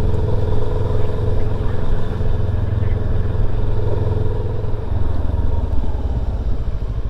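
Motorcycle running at road speed, heard from the rider's helmet microphone with wind rushing over it. A steady engine hum with a held tone that fades about five seconds in as the bike eases off a little.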